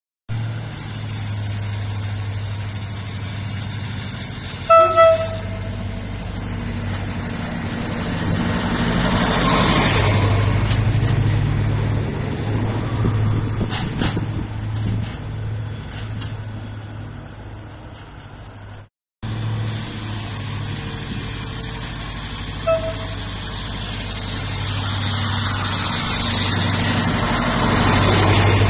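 Regional passenger railcars passing close along the platform: a steady low running hum with wheel and rail noise that swells as each train draws alongside. A horn gives two short toots about five seconds in and one short toot around twenty-three seconds, and the sound cuts out briefly near nineteen seconds.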